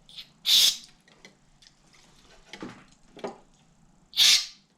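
Two short hissing squirts of aerosol carburetor cleaner, sprayed through a straw into the carburetor's passages, about half a second and about four seconds in. Faint handling knocks come between them.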